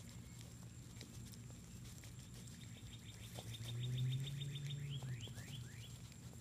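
A bird calls with a quick run of short high notes, about seven a second, then a few rising notes near the end. Under it runs a low steady hum that swells and is loudest in the middle. Faint scattered clicks and rustles come from two young nine-banded armadillos rooting and eating in the grass.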